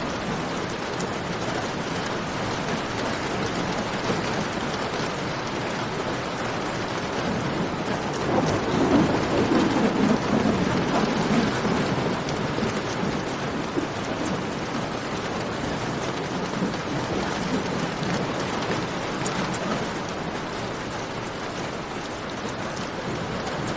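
Steady rainfall with scattered sharp crackles from a campfire. A low rumble swells about eight seconds in and fades a few seconds later.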